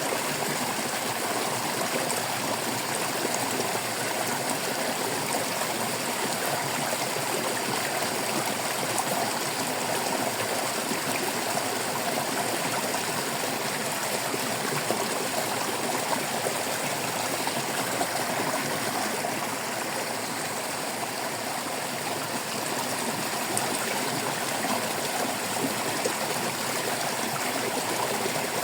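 Small stream of water flowing and trickling over rocks, a steady babbling and gurgling rush.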